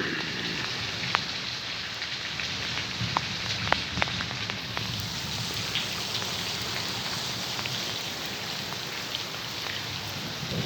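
Steady rain falling, with a few louder single drops striking a surface about 1, 3 and 4 seconds in.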